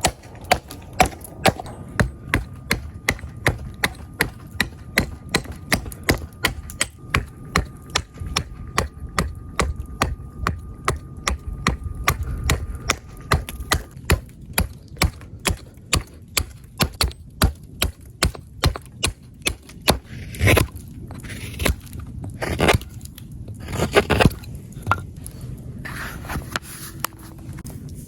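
Small hatchet chopping rapidly into green wood, about three strikes a second, roughing out a spoon blank. Near the end it changes to a few slower, longer cuts.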